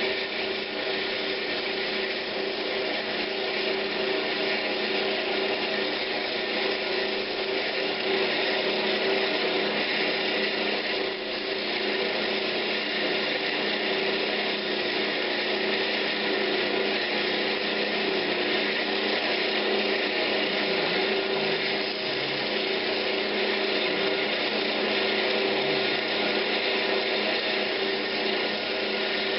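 Wood lathe running steadily while 150-grit sandpaper rubs against a spinning pine knob: a steady motor tone under an even sanding hiss.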